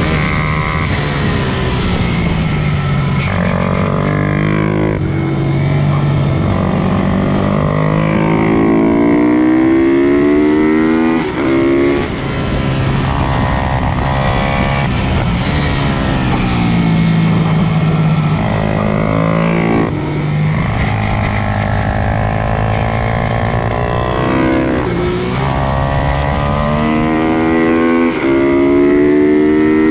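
Pit bike engines racing, revving up and dropping back again and again through gear changes and braking.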